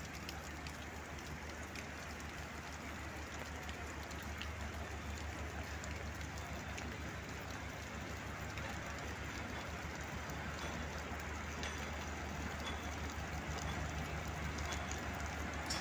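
Steady rain falling on a station platform and tracks, with a low hum from a multiple-unit passenger train rolling slowly into the station, growing slightly louder as it nears.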